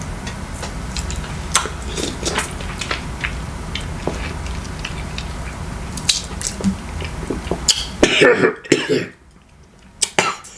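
Scattered light clicks and taps of food and utensils being handled over a low steady hum, then a few loud coughs about eight seconds in.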